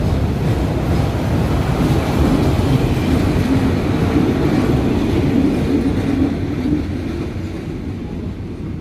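A State Railway of Thailand train running by with a heavy, steady rumble of wheels and running gear, which fades over the last couple of seconds.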